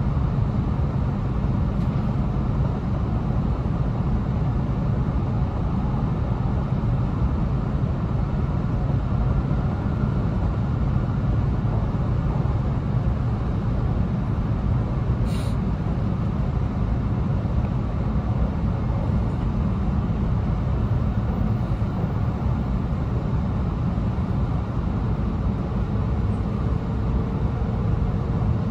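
Inside an E2 series Shinkansen car at speed: a steady low rumble of running noise from the wheels, track and bogies. A brief high hiss cuts in once, about fifteen seconds in.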